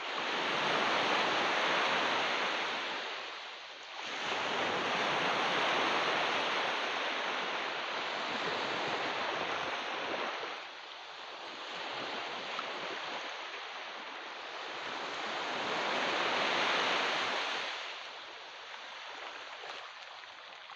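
Ocean waves washing onto a beach, rising and falling in three long surges of rushing water, the last easing off near the end.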